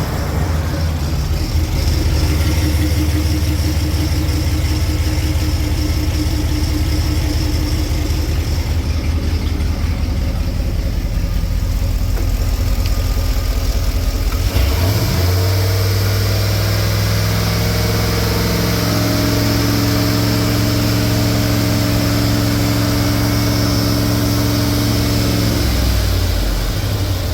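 GM 4.8 L V8 gasoline engine running at a steady idle. About halfway through it is brought up to a steady higher speed and held there, then it drops back toward idle near the end.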